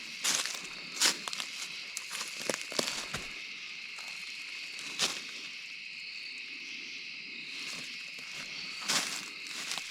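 A steady, high chirring chorus of night insects, with irregular crunches and snaps of footsteps on leaf litter and twigs.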